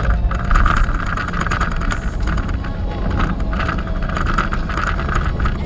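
Steady road and engine rumble heard from inside a moving truck's cab, with a hiss that swells and fades and a scatter of small irregular ticks.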